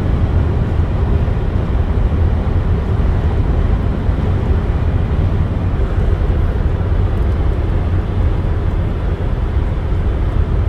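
Car on the move: a steady, low road and engine rumble.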